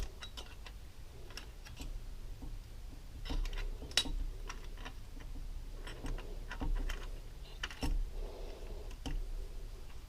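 Small metal engine parts and tools being handled on a workbench: scattered light clicks and clinks in loose clusters, the sharpest about four seconds in.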